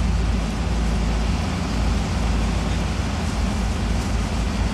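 Off-road 4x4 truck engine running steadily with a deep, continuous rumble.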